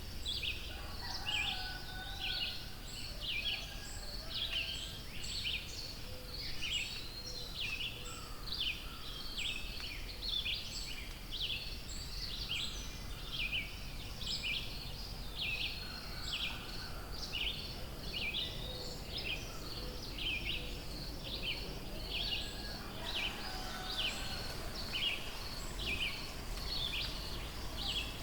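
Forest birdsong: a bird repeats a short, high, falling note about one and a half times a second, over and over. Fainter, lower bird calls come and go beneath it.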